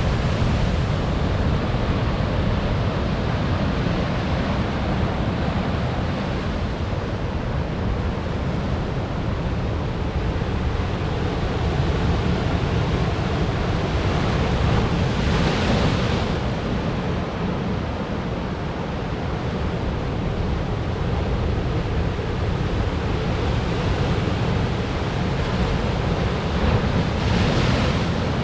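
Ocean waves breaking on coastal rocks: a continuous deep rumble of surf, with two brighter crashes swelling up about halfway through and near the end. Wind buffets the microphone throughout.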